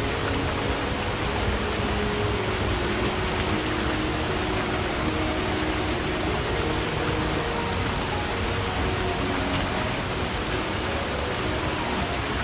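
Forest stream flowing: a steady rush of water with brief low gurgling notes coming and going.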